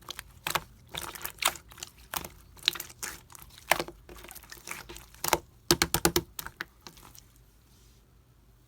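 Slime being squeezed and poked by hand, giving an irregular run of sharp clicks and wet pops, with a quick cluster of pops about six seconds in. The handling stops about seven seconds in.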